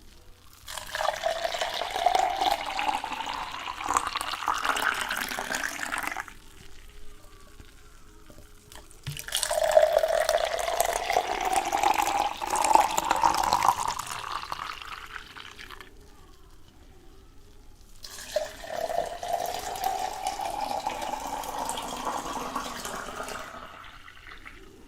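Water poured into a container three times, each pour lasting several seconds with a rising pitch as the container fills.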